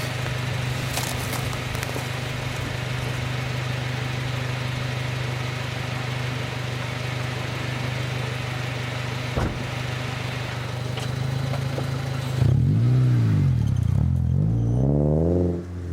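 Honda Civic's 1.4-litre D14Z1 four-cylinder engine breathing through a Burstflow muffler with its silencer removed, idling steadily, then revved twice in quick succession about twelve seconds in, the exhaust note rising and falling louder with each blip.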